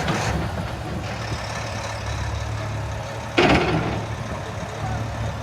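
Large truck engine idling with a steady low rumble. A sudden loud burst of noise comes about three and a half seconds in.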